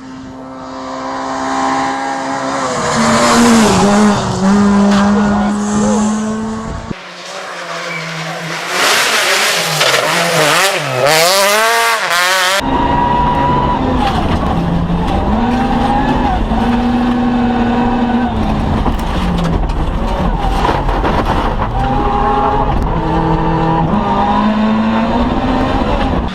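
Rally car engines at full throttle, revving up and falling back through gear changes, in a run of separate clips that cut about 7 and 12 seconds in. Between the cuts the pitch swoops up and down quickly.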